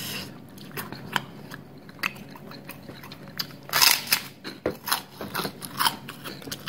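Close-miked mouth sounds of chewing. About four seconds in comes a loud crunching bite into a large kerupuk cracker, followed by a quick run of crisp crunches as it is chewed.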